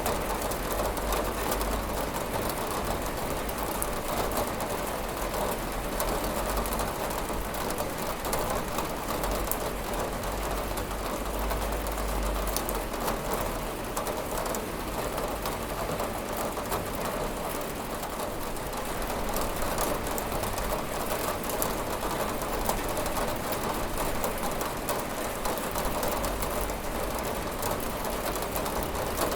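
Steady rain falling on a window, a dense even hiss made of many small drop ticks.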